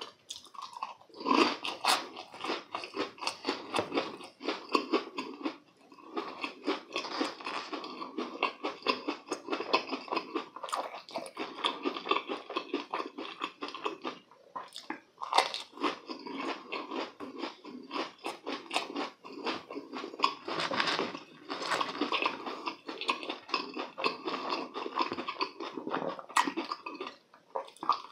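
Close-up crunching and chewing of deep-fried, breadcrumb-crusted croquettes: a continual run of crisp crackles as the crust is bitten and chewed, with short pauses around six seconds and fourteen seconds in.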